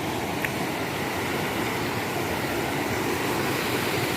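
Steady rush of river water flowing, with a single small click about half a second in.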